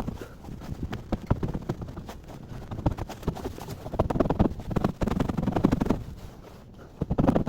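Modified exhaust of a Mazda MX-5 Miata burbling with many sharp, irregular pops and crackles over a low rumble. It grows louder in stretches about four and five seconds in and again near the end.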